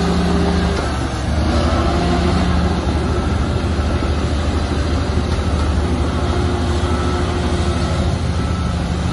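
Komatsu bulldozer's diesel engine running loud and steady under load, its pitch shifting about a second in.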